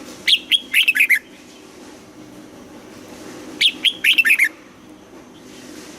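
Red-whiskered bulbul singing two short phrases of quick, clear whistled notes, one near the start and one about halfway through, over a faint steady low hum.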